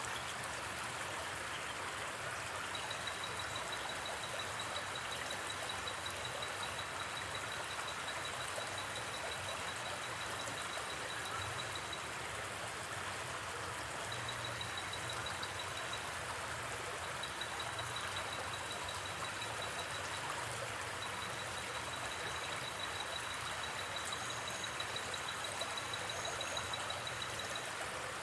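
A river flowing steadily, an even rush of water. Over it, a high, rapid insect trill comes and goes in stretches of a few seconds, as night forest insects call.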